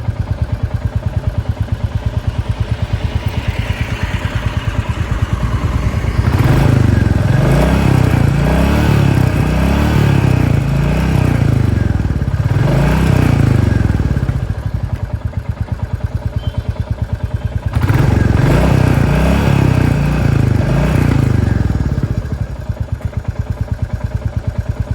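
Motorcycle engine idling with an even, pulsing exhaust beat, then revved in a run of throttle blips about six seconds in before settling back to idle. It is revved again a few times about eighteen seconds in and drops back to idle.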